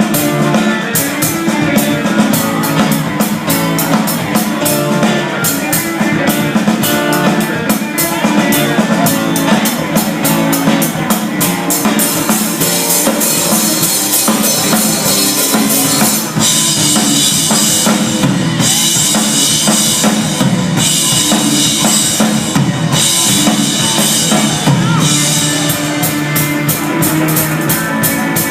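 Instrumental break of a rock song with no vocals: a full drum kit drives a steady beat under bass and guitar. About halfway through, the cymbals open up into brighter crashes roughly every two seconds.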